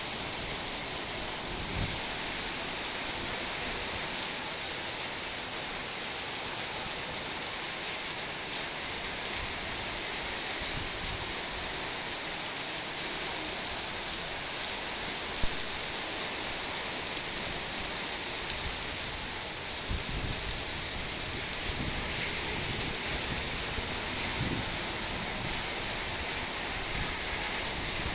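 Heavy monsoon rain pouring steadily onto a paved street and puddles, an even, unbroken hiss. A single brief click about halfway through.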